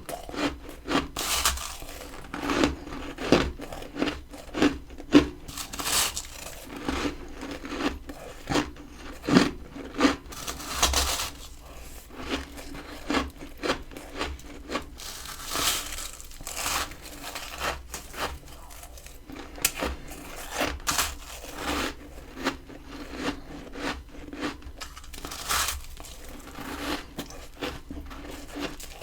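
Close-up crunching of freezer frost being bitten and chewed: many irregular, crisp crackles, some bites louder than others.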